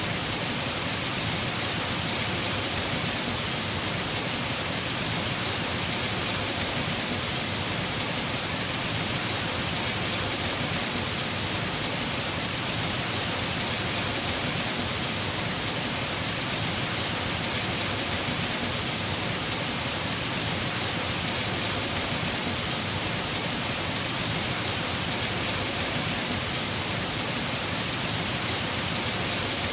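Heavy rain falling steadily on a house roof, a dense, even hiss that does not let up.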